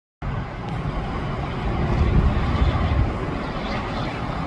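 Outdoor car and road-traffic noise: a steady low rumble with hiss, cutting in abruptly just after the start.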